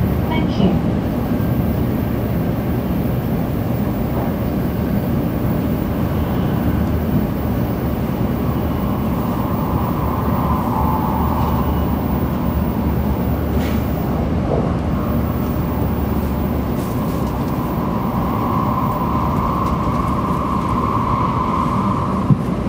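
Cabin running noise of a 700 series Shinkansen train: a steady rumble of wheels on rail and air rushing past, with a higher hum that swells twice, once around the middle and again near the end.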